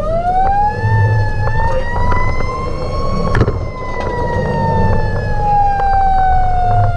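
Fire engine siren winding up in one long rising wail to its peak about three seconds in, then slowly falling in pitch, over the rumble of the truck.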